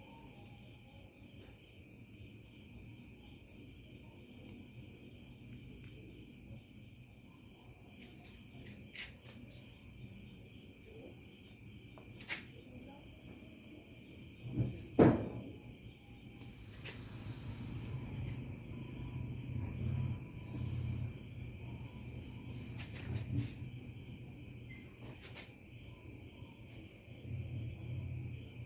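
Insects trilling steadily in a fast, even pulse throughout. About halfway through there is one sharp knock, and low, irregular handling noises follow.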